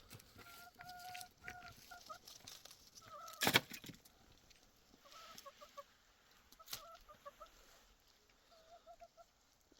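Domestic hens clucking in short runs of quick repeated notes, with a loud sharp knock about three and a half seconds in.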